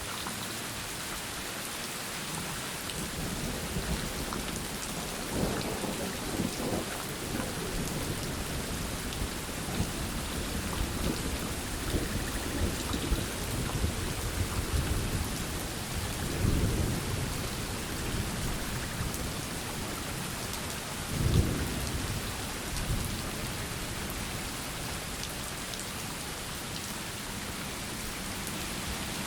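Steady heavy rain with thunder rumbling through the middle, swelling several times and cracking loudest a little after twenty seconds in.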